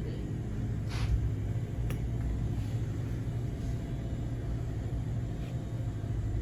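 Steady low rumble, with a brief sharp click about two seconds in.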